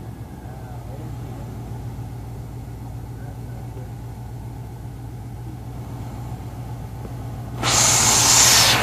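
An old truck engine idling steadily with a low rumble. About seven and a half seconds in, a loud rushing noise comes in on top of it.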